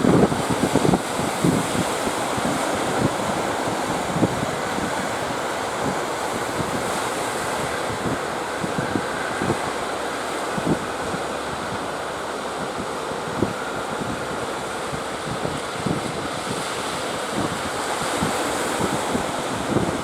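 Sea waves breaking in a steady wash, with strong wind buffeting the microphone in frequent short low gusts.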